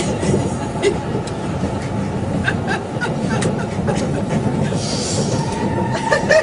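Train running, heard from inside the carriage: a steady rumble with occasional light clicks from the wheels and track.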